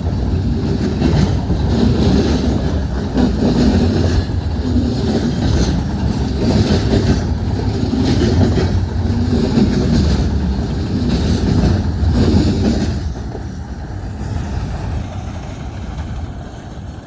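A train rolling past close by, its wheels clacking over the rail joints in a steady rhythm; the noise drops off about thirteen seconds in as the train goes by.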